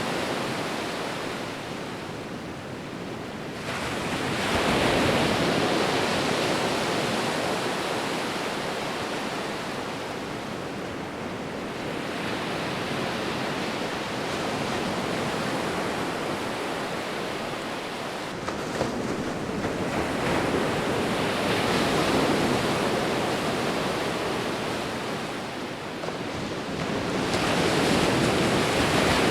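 Sea waves rolling in and washing ashore: a steady rush of surf that swells and eases every several seconds, loudest about five seconds in and again near the end.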